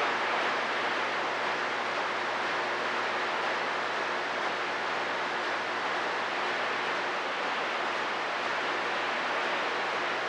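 Steady static hiss from a CB radio receiver between transmissions, the open band noise of the 11-metre band.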